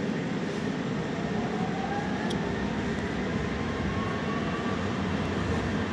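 Steady rushing noise with a faint whine that rises slowly in pitch from about a second and a half in, typical of a light-rail train's motors as it gets under way.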